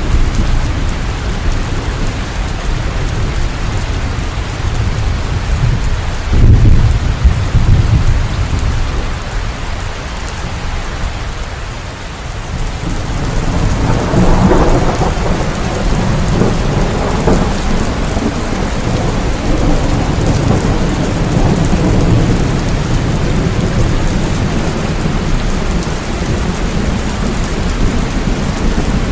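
Steady rainfall with rumbling thunder: a loud low rumble about six seconds in, and a longer rolling swell of thunder from about halfway.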